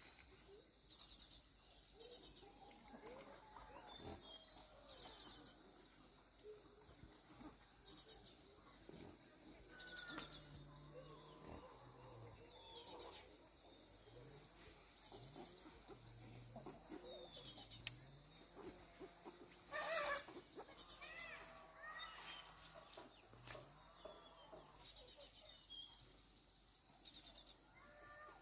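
Insects chirping in short, rapid high-pitched bursts that recur irregularly every one to three seconds, with faint bird chirps between them.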